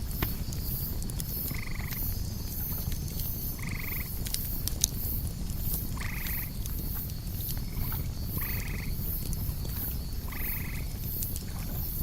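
Campfire crackling with scattered sharp pops over a steady low rumble, and crickets chirping in a fast, even high pulse throughout. Six short animal calls, each well under a second, break in at irregular gaps.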